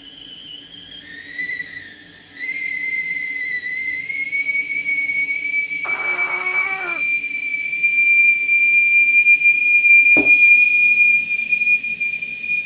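Stovetop whistling kettle at the boil, one shrill steady whistle that jumps up in pitch twice in the first few seconds, then holds and grows louder.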